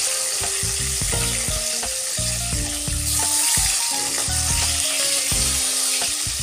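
Rohu fish steaks sizzling steadily as they shallow-fry in hot mustard oil in a nonstick wok, turned over one by one with a spatula. Background music with a simple melody plays underneath.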